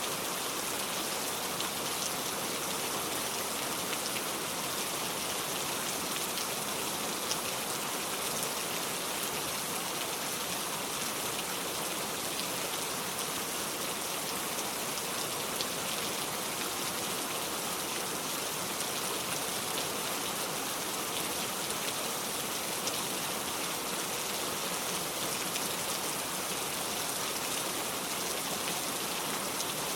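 Heavy rain falling steadily, an even hiss with a few sharp drop ticks here and there; no thunder.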